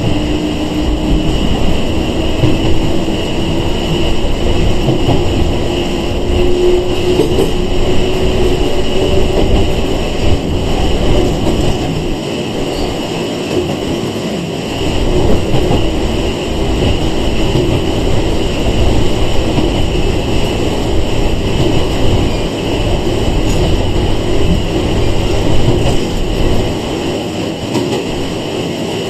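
Running sound inside a Sanki Railway 101 series electric train (ex-Seibu 401 series): a steady rumble of wheels on rail with a motor hum that rises slowly in pitch over the first several seconds as the train gathers speed.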